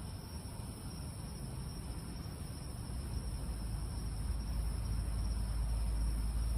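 Crickets chirring in a steady high-pitched chorus through the night air, with a low rumble that grows louder from about halfway through.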